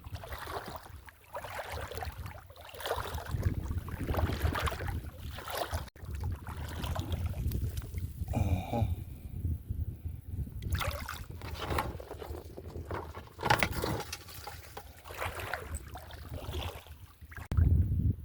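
Water sloshing and splashing in irregular bursts over a steady low rumble, with one brief pitched sound about eight and a half seconds in.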